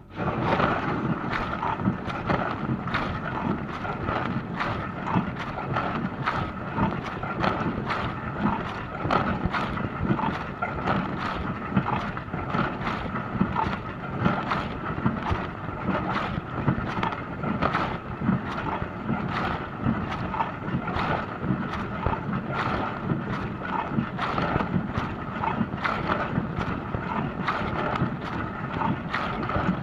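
Dishwasher wash cycle cutting in suddenly: water sprays and splashes steadily against the inside of the tub, over a faint steady hum from the pump.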